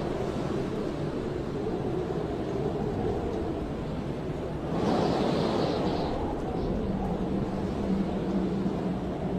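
Blizzard wind blowing hard and steadily, with a stronger gust swelling up about five seconds in and a low moaning whistle setting in near the end.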